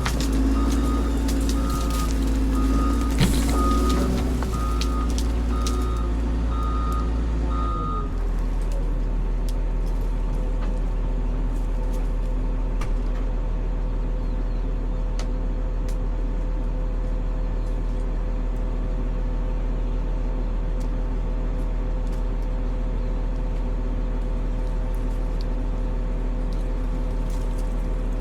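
Cat 140M motor grader's diesel engine running with its reversing alarm beeping at a regular pulse. About eight seconds in, the beeping stops and the engine drops to a steady idle.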